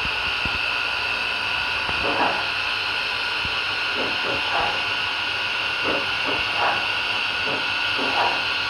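Sound decoder of an HO scale model steam locomotive playing a steady steam hiss through its speaker, with short irregular bursts over it from about two seconds in.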